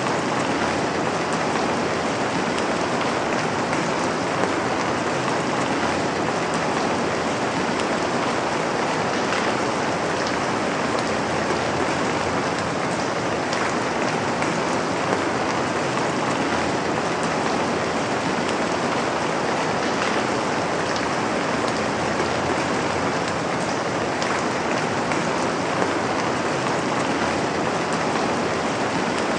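Steady rain falling onto a surface, an even, unbroken hiss with faint scattered drop ticks.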